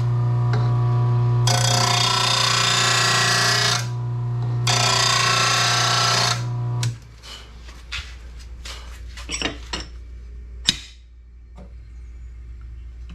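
An RBG 712 mower-blade sharpener's motor is humming while a lawn mower blade is pressed to the grinding wheel in two short grinding passes, taking a little metal off the heavy end to balance the blade. The motor then stops, followed by a few metal clanks and a sharp knock as the blade is handled.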